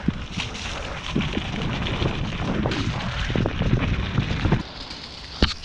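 A mountain bike riding down a rough trail: tyres rumbling over dirt and roots, with scattered rattles and knocks and wind buffeting the microphone. A single sharp knock comes near the end.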